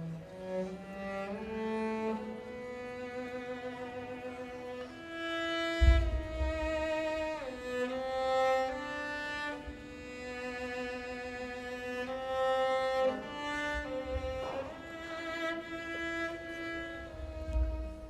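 Cello and string orchestra playing classical music: long singing notes with vibrato, a downward slide about seven and a half seconds in, and a low thump about six seconds in.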